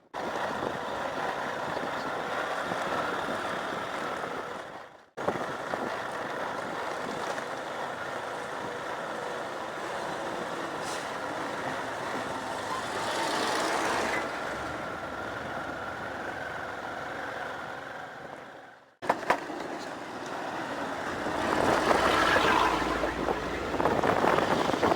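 Motorbike running steadily on a dirt road, its engine tone mixed with tyre and wind noise. The sound drops out abruptly twice, and a louder rush of noise swells in about halfway through and again near the end.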